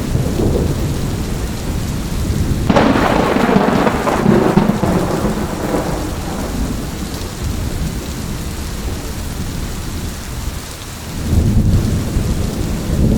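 Thunderstorm: steady heavy rain with rolling thunder. A sharp thunderclap breaks about three seconds in and rumbles on for several seconds, and another low roll of thunder builds near the end.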